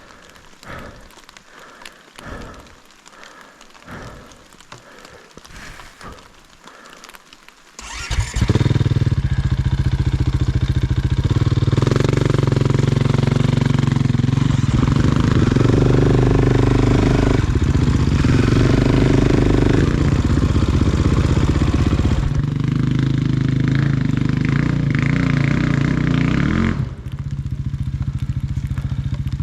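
Off-road vehicle engine working over a trail. For the first eight seconds it runs low with irregular knocks and pulses. About eight seconds in it comes up to a loud, sustained run under throttle, its pitch rising and falling, then it drops back near the end.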